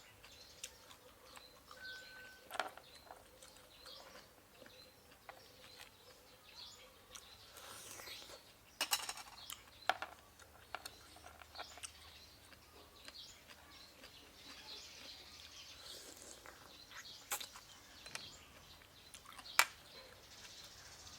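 A person eating: close chewing and crunching with sharp clicks now and then, the loudest near the middle and near the end.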